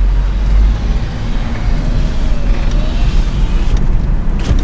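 Truck running, a steady low rumble of engine and road noise, with a short knock near the end.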